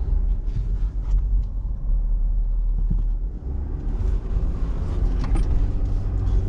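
Low, steady rumble of a 2019 Ford F-250's 6.7-litre Power Stroke V8 turbo diesel, growing a little louder from about four seconds in.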